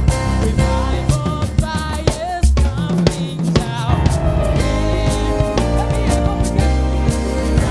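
Live worship band music: a drum kit playing kick, snare and rimshots in a steady groove over a bass line, with a wavering melody above.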